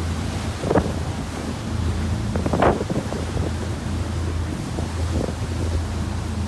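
Wind buffeting the microphone on a moving tour boat, over the steady low drone of the boat's engine, with stronger gusts about a second in and near three seconds.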